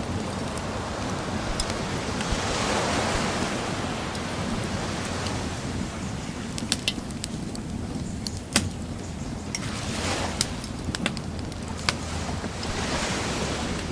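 Sea waves washing onto the shore, swelling twice, while a wood bonfire crackles with sharp pops every second or so.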